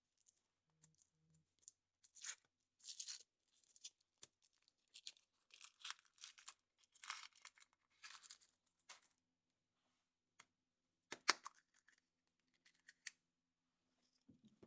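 Foil wrapper of a chocolate surprise egg crinkling and tearing as it is peeled off, in a string of short rustles, with a sharper crackle about eleven seconds in.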